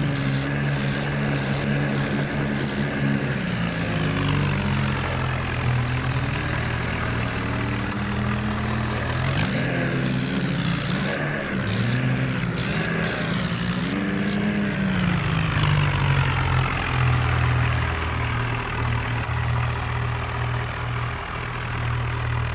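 Massey Ferguson tractor engine running hard under load, its pitch rising and falling several times as it is revved, as the tractor strains while stuck in deep mud during a tow.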